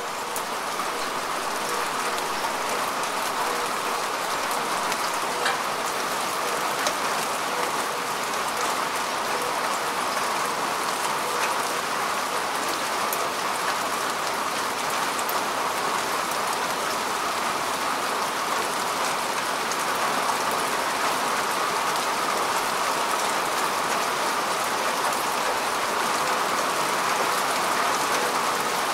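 Steady rain falling on grass and earth: an even hiss of rainfall with scattered individual drop ticks.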